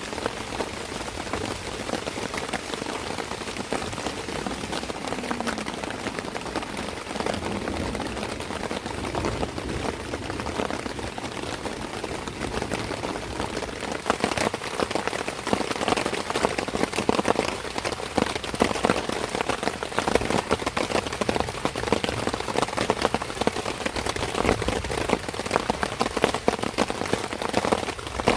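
Rain falling steadily, a dense patter of drops striking a surface, growing heavier and louder about halfway through.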